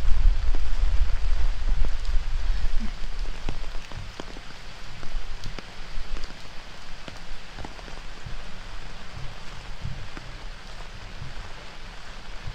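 Heavy rain falling steadily as an even hiss, with scattered sharp drop ticks. Gusty wind buffets the microphone with a low rumble for the first few seconds, then eases.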